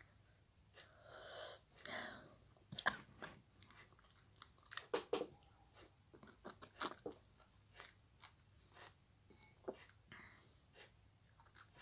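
A person chewing and sucking on a sour lemon wedge soaked in vinegar and hot chili, with many short wet mouth clicks and smacks. About a second in come two hissing breaths through the mouth.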